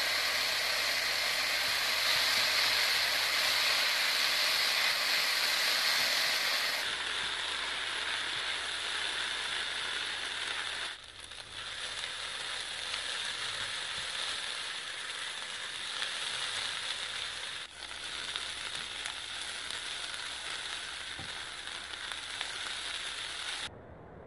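Fried rice with shiitake mushrooms sizzling steadily in a hot nonstick wok as it is stir-fried, with two brief dips; the sizzle cuts off near the end.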